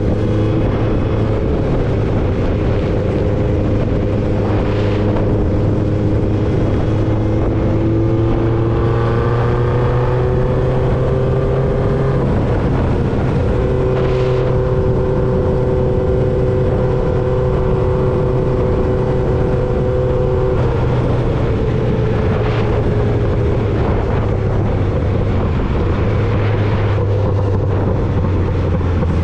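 1995 Honda CB750 Nighthawk's inline-four engine running through a Vance & Hines 4-into-1 exhaust while riding at a steady pace, its pitch rising slowly partway through and then holding, with wind and road noise underneath.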